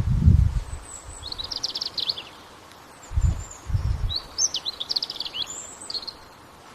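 Small birds chirping in two bursts of rapid high trills over a faint outdoor hiss. Low dull thumps come at the start and twice about three seconds in.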